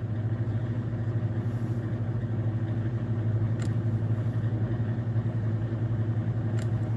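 A steady low mechanical hum, with two faint clicks about three seconds apart.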